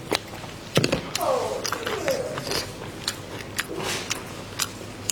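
Close-miked eating: wet chewing and lip smacks with many sharp clicks, the loudest just under a second in. Two short falling voice-like tones come about a second and two seconds in.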